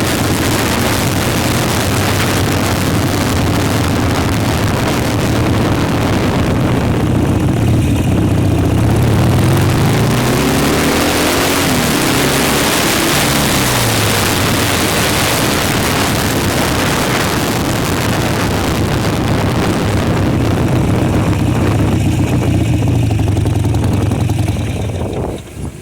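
Motorcycle engine running at riding speed under heavy wind rush on the microphone. In the middle the engine note drops and then climbs again as it slows and picks up speed. The sound cuts off abruptly near the end.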